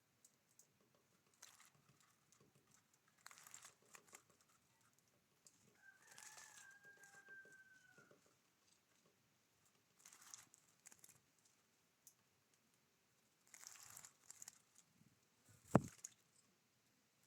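Faint rustling and pecking from birds at a feeder, with one drawn-out call of about two seconds a third of the way in and a single sharp tap near the end.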